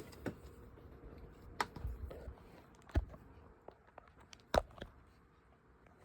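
A few scattered sharp knocks and clicks of objects being handled, the loudest about three and four and a half seconds in.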